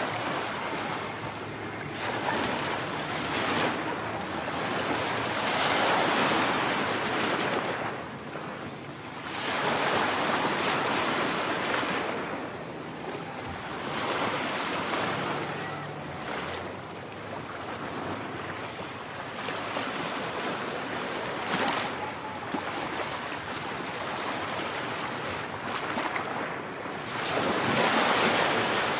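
Ocean surf: waves breaking and washing in, the rush swelling and fading every few seconds, with wind on the microphone.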